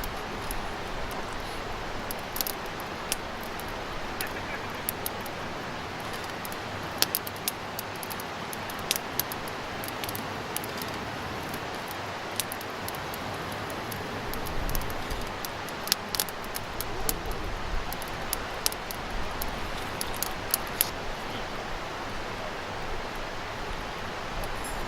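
Wood campfire crackling, with scattered sharp pops and snaps over a steady hiss.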